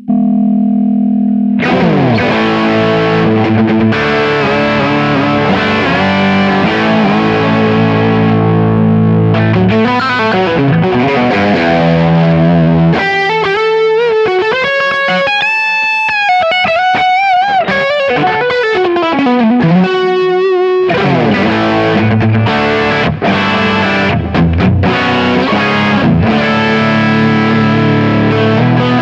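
Soloking MS-1 Custom electric guitar with HSS pickups played through distortion and effects. A ringing chord opens into held, driven chords. About halfway through, a single-note lead line with string bends and vibrato takes over, then chords return.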